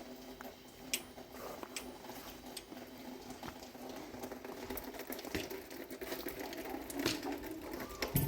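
Steady rain hiss with a few sharp clicks and taps.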